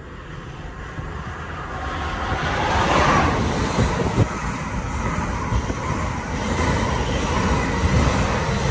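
Passenger train passing at speed on an electrified main line: the sound builds as it approaches, then holds as a steady loud rush of wheels on rail and air as the carriages run past below.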